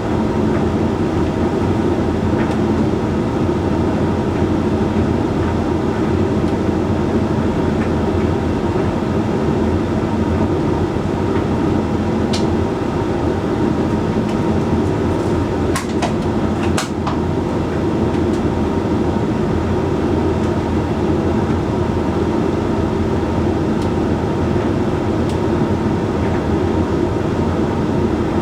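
Hoover Link X Care HLX C10DRGR condenser tumble dryer running mid-way through its Whites cycle: a steady hum and rumble from the motor, fan and turning drum. A few faint clicks come around the middle.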